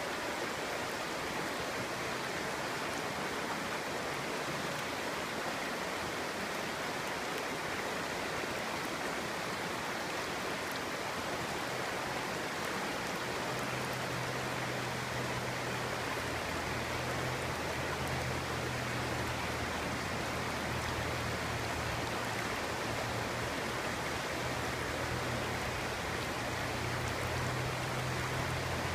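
Clear stream flowing, a steady even rush of water. A low steady hum joins about halfway through.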